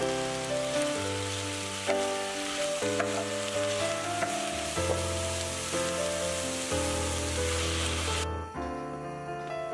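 Burdock root, pork and bean curd sizzling in a hot frying pan as they are stirred with a wooden spatula, over background music; the sizzle cuts off suddenly about eight seconds in while the music carries on.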